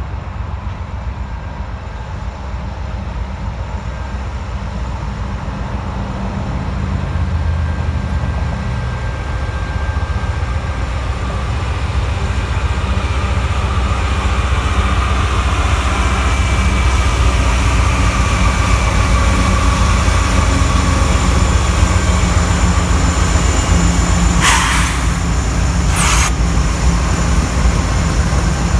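A train approaching and passing, its locomotive and wheels making a low rumble that grows steadily louder, with steady tones coming in over the rumble from the middle on. Two short, sharp noises come close together near the end.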